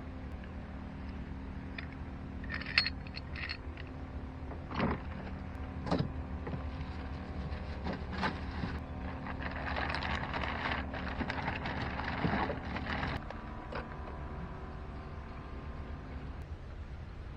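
Yamaha 2 hp outboard motor running steadily at low speed, with scattered knocks and rattles from gear being handled in the small boat. A louder stretch of rustling and knocking comes about halfway through.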